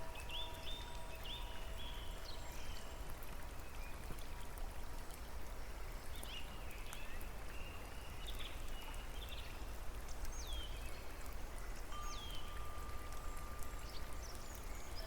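Steady hiss of falling rain with small birds chirping in short, quick, gliding notes throughout. A soft held musical tone sounds near the start and again in the last few seconds.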